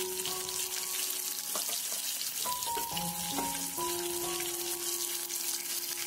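Bacem tempeh and tofu pieces shallow-frying in oil in a nonstick wok: a steady crackling sizzle. Background music with sustained melodic notes plays over it.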